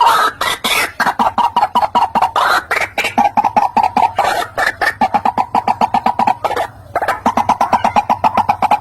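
White-breasted waterhen calling: a fast, unbroken run of short, harsh notes, many per second, with a brief pause near the end.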